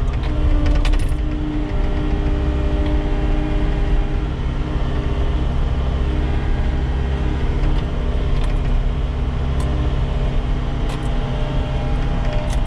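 Cat skid steer's diesel engine running steadily while the machine drives, with a few light metallic clinks and rattles.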